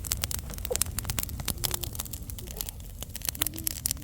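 Dense, irregular crackling and popping over a steady low rumble, with a few faint short high-pitched chirps.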